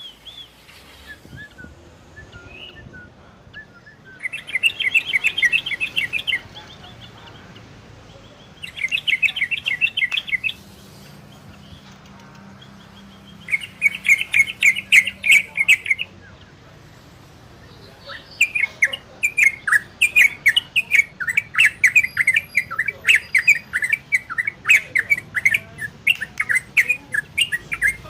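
Yellow-vented bulbul (trucukan) singing in rapid runs of chattering notes: three short bursts, each about two seconds, then a longer unbroken run from about two-thirds of the way in.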